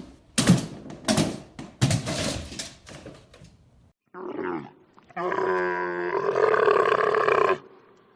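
An animal calling: four short, harsh calls in quick succession, then a brief call and one long, steady call of about two and a half seconds.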